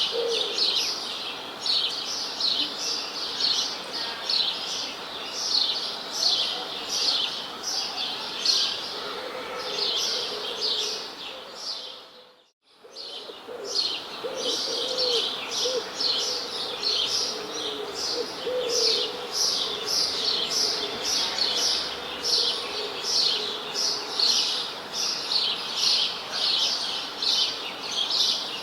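A dense chorus of small birds chirping, many quick high notes overlapping continuously, with a fainter low cooing beneath. Just under halfway through, the sound fades away to near silence for about a second, then returns.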